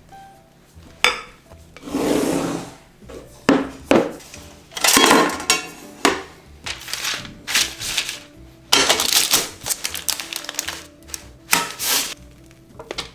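Hand-mixing of cake batter in a mixing bowl: irregular bursts of stirring and scraping with a few sharp clicks of the utensil against the bowl, over soft background music.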